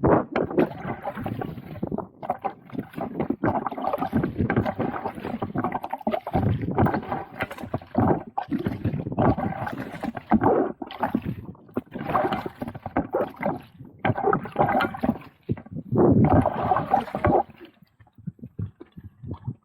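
Water splashing and gurgling around a paddled kayak, coming in uneven surges every second or so.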